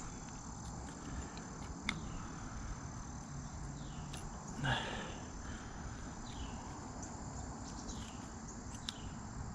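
Steady high insect trilling, with several short falling chirps around the middle and a few faint clicks, plus one brief louder rustle about five seconds in.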